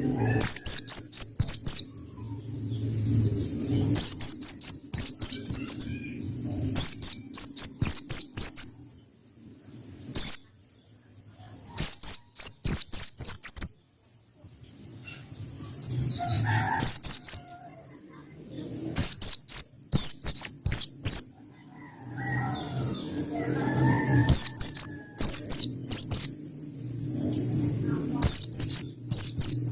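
Pleci (white-eye) of the Pacitan type singing in quick bursts of high, sharp, downward-sweeping chirps. Each burst lasts a second or two and comes again every couple of seconds, over a faint low rumble.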